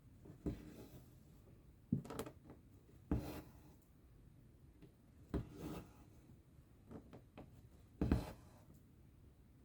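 Needle stitching through cross-stitch fabric: a sharp tap as it pierces the cloth, then a short rasp of thread drawn through. This repeats about six times at uneven intervals.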